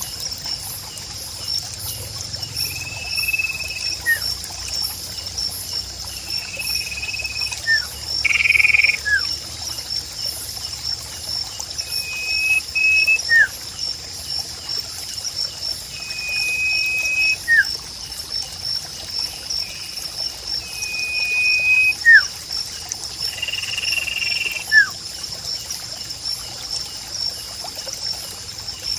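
Nature soundscape of trickling water and a steady, pulsing insect trill. Over it a bird call repeats about every four to five seconds: a flat, high whistle about a second long, then a short note sweeping down.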